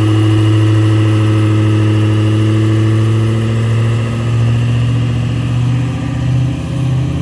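A 2005 Ford F-350's 6.0-litre Power Stroke turbo-diesel V8, tuned and fitted with a stage 1 Garrett turbo, running loud and steady under power; about four seconds in it eases off and wavers as it slows.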